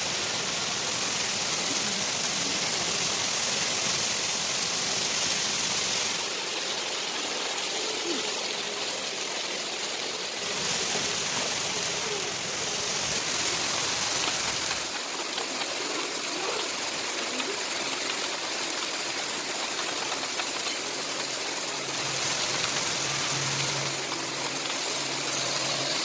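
Heavy rain with rushing runoff water, a steady hiss whose character changes abruptly several times. A low steady hum joins near the end.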